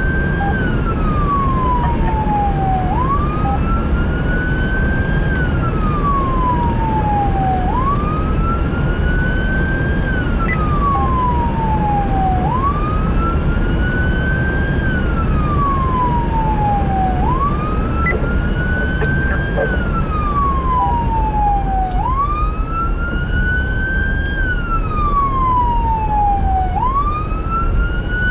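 Emergency vehicle siren on a slow wail, rising quickly and then falling back about every five seconds, over a heavy, steady rumble of engine and road noise.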